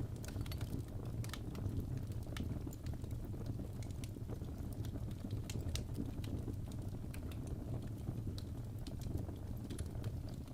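Fireplace crackling: irregular sharp snaps and pops over a steady low rumble of the burning fire.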